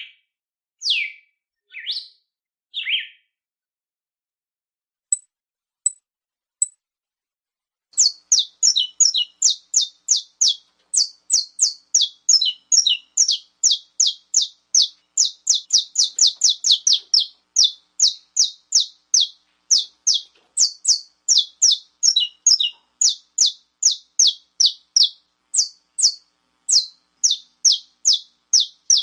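Songbird singing: a few falling whistled notes, a short pause with a few faint clicks, then from about eight seconds in a long run of quick, high, sharp notes, about three a second.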